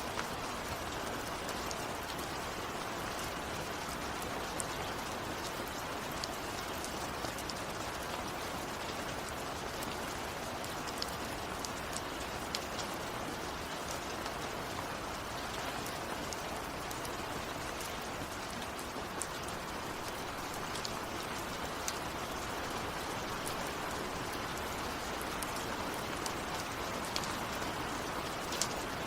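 Steady rain falling, a constant hiss with scattered sharp ticks of individual drops hitting a surface.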